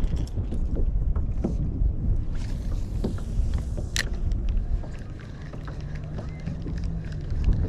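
Wind buffeting the microphone and choppy water slapping a kayak's hull, with scattered small clicks and one sharp click about four seconds in.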